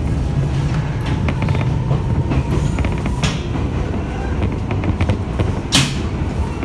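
Jomo Electric Railway 700 series electric train (ex-Keio 3000 series) running, heard from inside the car: a steady low rumble from the wheels and running gear, with scattered clicks over the track. A brief sharp burst of noise stands out near the end.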